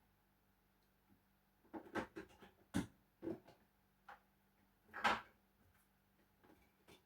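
A series of short knocks and clatters, as of things being set down and handled: a cluster around two to three seconds in and the loudest knock about five seconds in.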